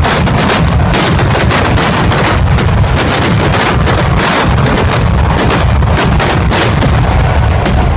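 Festival fireworks going off as an unbroken barrage of rapid, loud blasts, several a second, overlapping one another.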